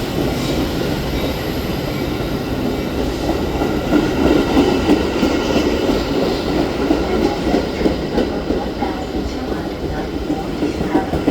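A train passing through the station without stopping: a steady, loud rumble and rattle of the wheels on the rails.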